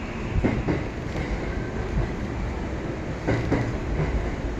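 Running noise inside a moving commuter train car, with wheels knocking over rail joints in two quick pairs, about half a second in and again past three seconds.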